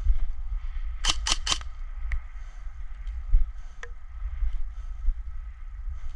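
Three quick airsoft gun shots about a second in, sharp pops a fifth of a second apart, with a few fainter ticks later, over a steady low rumble.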